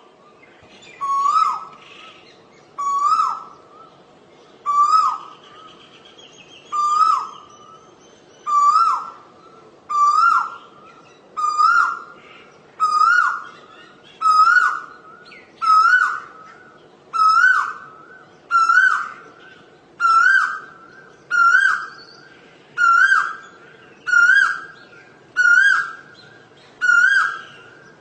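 Asian koel calling: a loud, repeated call about every one and a half seconds, the series speeding up slightly and climbing gradually in pitch.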